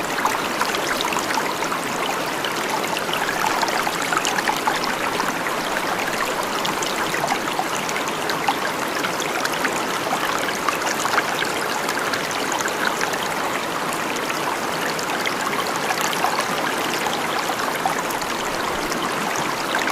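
Running water, trickling and splashing steadily without a break.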